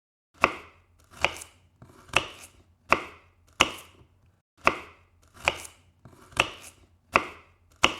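A series of about ten sharp chopping strikes, a little under one a second, with a short pause about halfway through.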